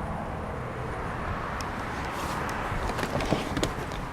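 Steady outdoor background noise, a low rumble with hiss, with a few small clicks in the last second.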